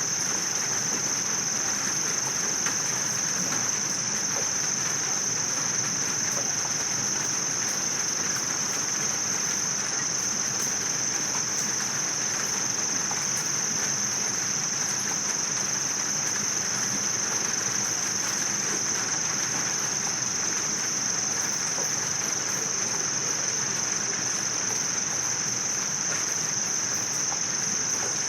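Insect chorus: a steady, high-pitched continuous trill over a fainter even hiss, unchanging throughout.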